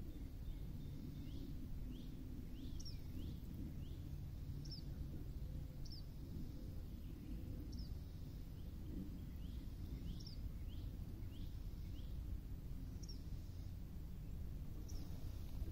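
Birds calling from the riverbank trees: short, high, sliding chirps, roughly one a second, over a low steady outdoor rumble.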